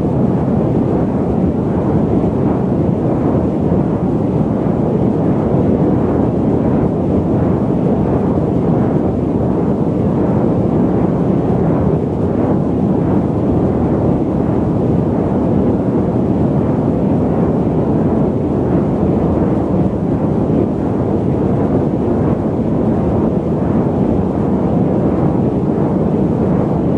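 Airliner cabin noise in cruise flight: a steady, deep rushing sound that holds even throughout, with no changes.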